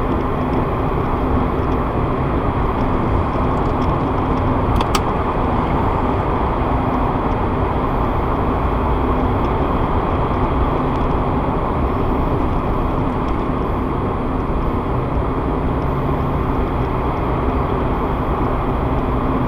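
Steady road noise and engine hum inside a moving car, picked up by a dashcam's built-in microphone, with a brief click about five seconds in.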